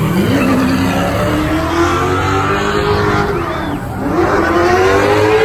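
A car engine revving hard at high rpm, its pitch holding high, dipping about four seconds in and climbing again near the end.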